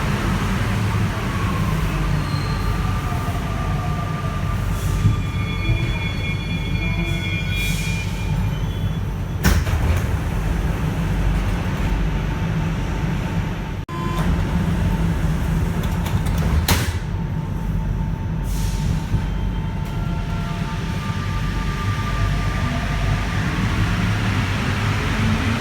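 NS-93 rubber-tyred metro train running, heard from inside the car: a steady low rumble throughout, with high whining tones in the first third and again near the end. Two sharp knocks come about seven seconds apart in the middle.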